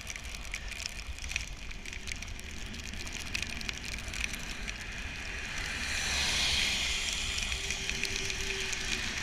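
Bicycle ridden on a wet road in the rain: tyres hissing on the wet surface with scattered crackling ticks of rain and a low wind rumble on the microphone. The hiss grows louder about six seconds in.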